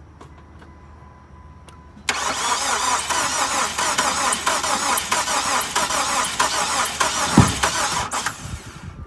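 A salvage Chrysler PT Cruiser's starter cranking the engine with an even rhythm. It starts suddenly about two seconds in and stops about six seconds later without the engine catching.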